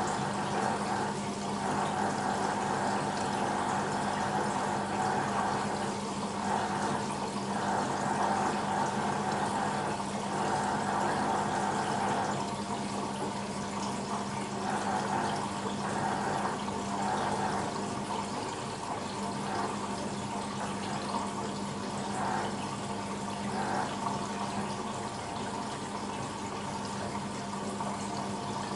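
BEKO WMB 51441 washing machine with water rushing through it: a steady rush that swells and eases every second or two, over a constant mechanical hum.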